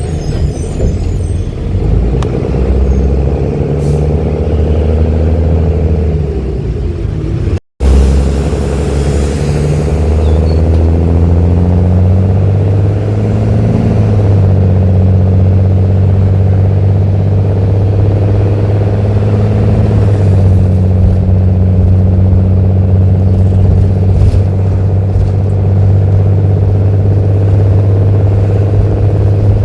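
Mercedes-Benz OH-1318 bus's diesel engine heard through a free-flowing, open exhaust, pulling hard as it accelerates. Its pitch climbs and falls back with each gear change, then holds steady from about halfway through. The sound cuts out for a moment about eight seconds in.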